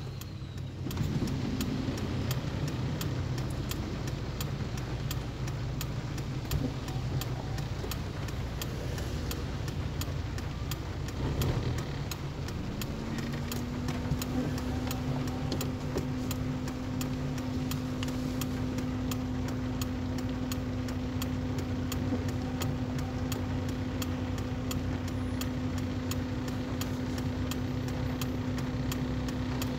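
Car engine idling, heard from inside the cabin while the car waits in traffic, with light, evenly spaced ticking throughout. About twelve seconds in, a steady hum comes in with a slight rise in pitch and holds.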